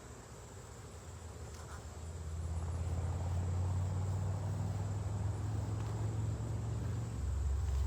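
Honeybees buzzing around an open hive, a steady hum that swells about two seconds in and stays loud.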